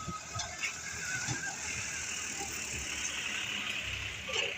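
A vehicle running close by: a steady rushing noise over a low, uneven rumble, swelling in the middle.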